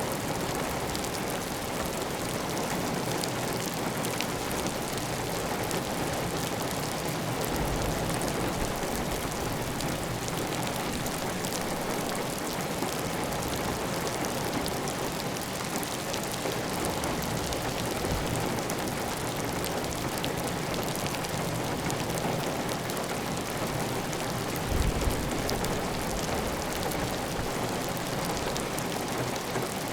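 Heavy rain falling steadily on a clay-tile roof, with water running off the roof edge in a constant even rush. A brief low thump near the end.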